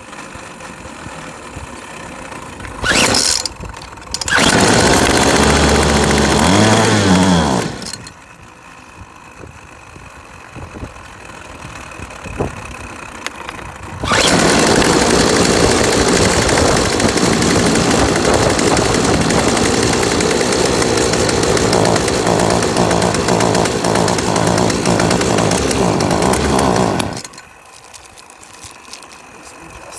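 Yardworks 25cc two-stroke trimmer engine running on a freshly fitted, not yet adjusted carburetor: a brief burst about three seconds in, then several seconds of revving up and down. After a quieter spell it runs steadily at high speed from about halfway through, and stops suddenly near the end.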